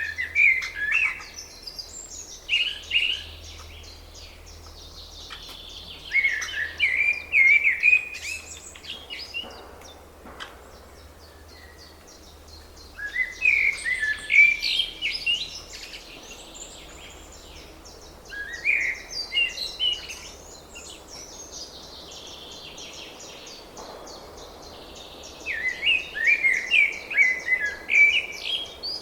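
A small bird singing short phrases of quick chirps and warbles, a second or two each, repeated about six times with pauses between.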